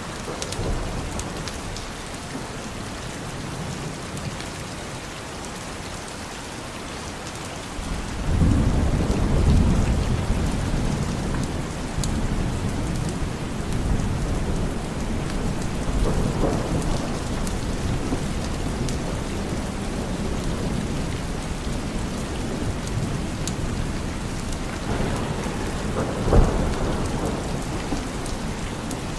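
Steady rain with thunder: a long low rumble rolls in about eight seconds in and keeps going, with further swells of rumbling later and a sharper thunderclap near the end.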